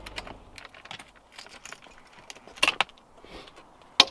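Car keys jangling and clicking as they are handled, with a louder rattle past the middle and a sharp click near the end.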